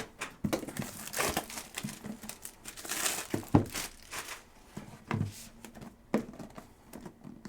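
Plastic wrapping crinkling and tearing as a sealed box of trading cards is unwrapped, with a few light knocks of the box being handled.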